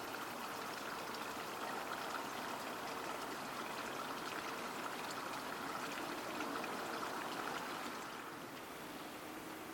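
Steady rushing of flowing water, easing a little near the end.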